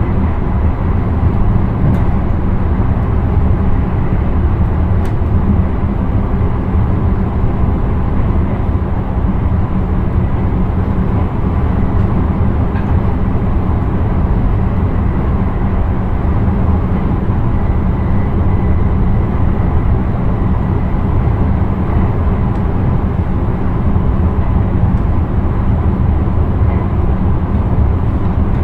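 Intercity train running along the line, heard from inside the driver's cab: a steady low rumble of wheels and running gear with an even hiss over it, and a few faint ticks.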